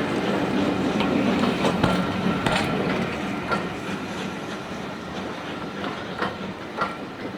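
Train rolling along the track, wheels clicking over the rail joints about once a second over a steady rumble, fading as it moves away.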